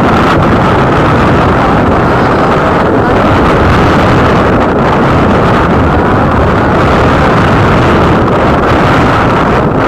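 Loud, steady rush of wind on the microphone of a moving motorcycle, with vehicle noise underneath.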